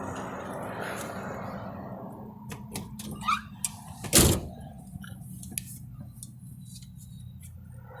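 A door shut with one solid thunk about four seconds in, after a few light clicks and knocks, over a low steady hum.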